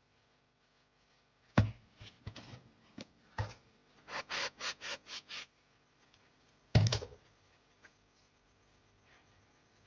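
Household objects being handled: a thump, a few light clicks, then six quick hissing strokes at about four a second, and another thump.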